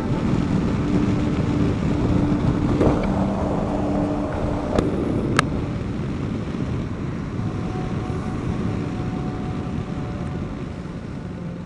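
Motorcycle running at road speed, engine hum mixed with wind and road noise, with two brief sharp clicks about five seconds in. The sound fades down near the end.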